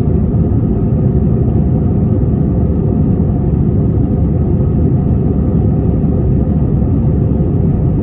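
Steady low rumble of Airbus A321 cabin noise, the engines and airflow heard from a window seat, unchanging throughout.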